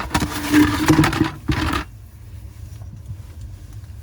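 Clattering and rubbing as a hand reaches under a utility sink to the water shut-off valves, for just under two seconds, then only a low steady hum.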